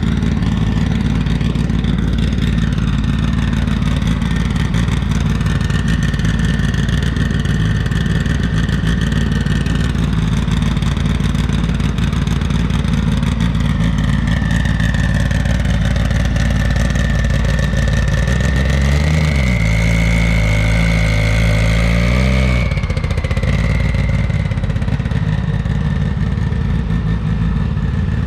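Drag-racing car engines running loud and steady, with a thin high whine wandering in pitch above them. From about 18 seconds in one engine's pitch rises, holds, and drops off abruptly near 23 seconds.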